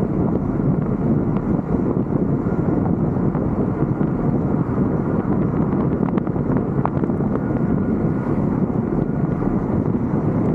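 Steady rumble of wind buffeting a vehicle's roof-mounted 360 camera, mixed with vehicle noise. A few faint ticks come about six to seven seconds in.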